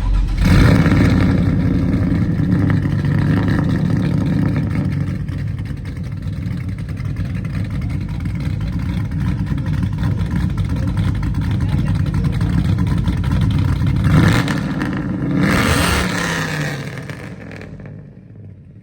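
Loud car engine and exhaust running at a steady rumble, with two surges of revving about 14 and 16 seconds in, then dying away near the end.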